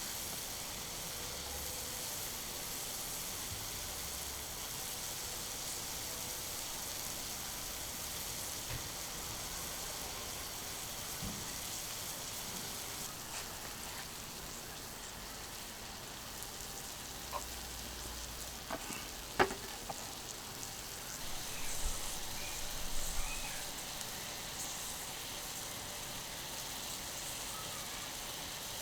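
Sirloin steak sizzling steadily on a hot iron griddle, with a few sharp clicks in the later part, the loudest about two-thirds of the way through.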